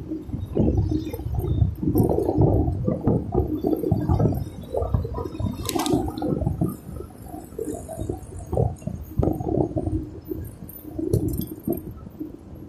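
Wind buffeting the microphone in irregular gusts, a low rumble with a few faint clicks over it.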